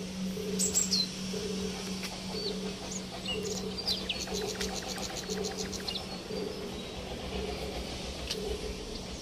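Small birds chirping, with a quick run of repeated high notes about four to five seconds in, over a steady low pulsing drone of ambient background music.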